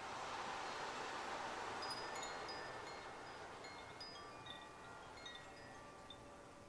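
Wind chimes tinkling, many short high ringing notes scattered over a whooshing swell that rises at the start and fades toward the end.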